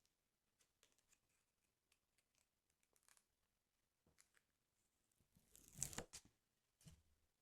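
Paper tearing close to the microphone: faint taps and rustles, then one tear lasting about a second near the end, followed by a short rustle.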